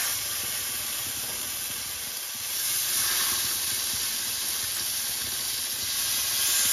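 Marinated chicken tikka skewers sizzling in hot oil in a frying pan, a steady hiss that swells a little as each further skewer is laid in.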